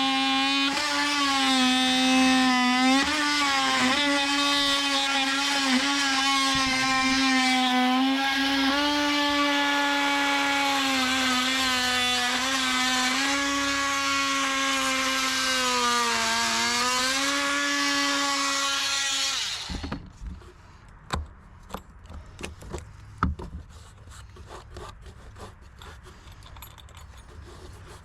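Oscillating multi-tool plunge-cutting into wood: a steady, high buzzing whine whose pitch sags briefly under load about 16 seconds in. It shuts off at around 19 seconds, and a few light knocks and clicks from handling the tool and wood follow.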